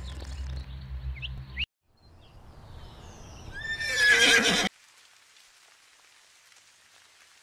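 A horse whinnies loudly about four seconds in, its pitch falling, and is cut off abruptly. Before it, a low steady hum with a few short high chirps stops suddenly.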